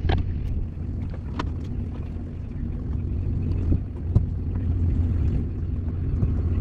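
An engine running steadily with a low rumble, with a few light knocks along the way.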